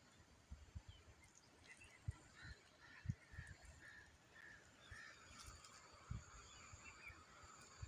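Near silence, with a string of faint, short bird calls and a few low thumps.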